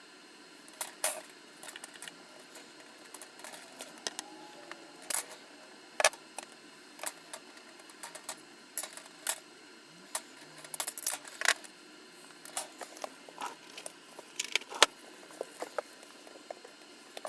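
Irregular sharp clicks and light metallic clinks, several a second at times, as small metal parts are handled and set down.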